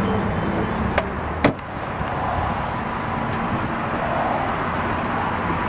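Two sharp clicks, a faint one about a second in and a louder one half a second later, over a steady low background rumble.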